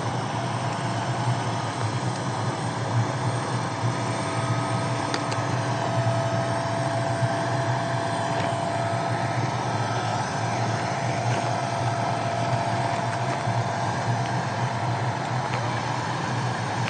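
Police helicopter running at high power: a steady turbine whine over the constant noise of the spinning rotor.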